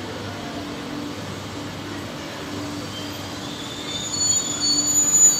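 Omneo double-deck regional train rolling slowly past, with a steady running noise and a low pulsing hum. From about three seconds in its wheels squeal high on the rails, getting louder toward the end.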